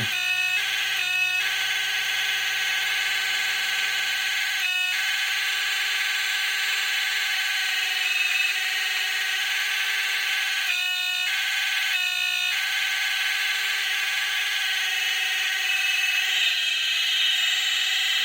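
Homebrew DC40v2 radio's audio output giving a loud, steady hiss laced with several steady whining tones and a low hum, broken by short gaps a few times. These are not normal receiver sounds: the builder suspects something in the amplification stages is going haywire or miswired.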